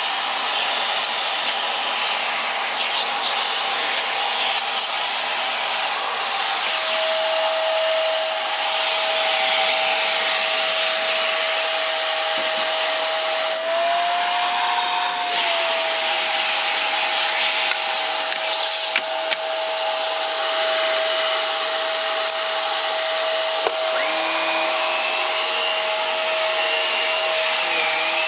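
Hoover PowerDrive Pet bagless upright vacuum cleaner running on carpet with a steady motor whine while picking up husky fur. The whine rises briefly about halfway through, and a second, higher whine joins near the end.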